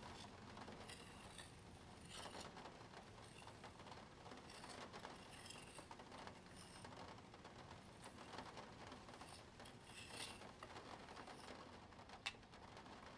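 A Spirograph's plastic gear wheel being driven round with a pen, making faint scratching and light ticking in repeated strokes, with one sharp click near the end.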